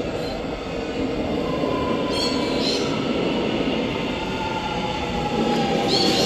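Electric suburban train moving along the platform, with a steady rumble and a motor whine that slowly falls in pitch as it slows. Short high squeals from the wheels or brakes come about two seconds in, again just after, and near the end.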